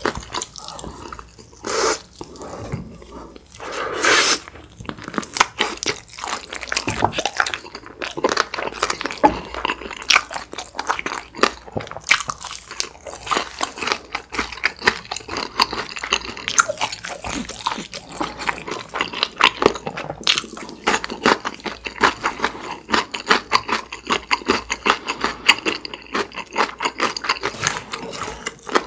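Close-miked chewing of a mouthful of glazed fried chicken with cheese sauce: wet mouth sounds full of quick, irregular crackles and clicks.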